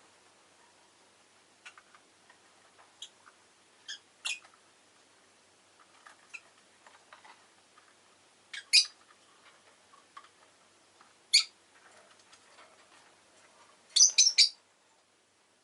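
Peach-faced lovebirds giving short, sharp chirps every few seconds, the loudest a quick run of three or four calls near the end, with faint ticking between the calls.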